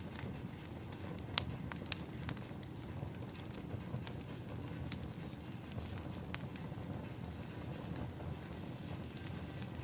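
Fireplace ambience: a wood fire crackling, with a low steady rumble and irregular sharp pops and snaps.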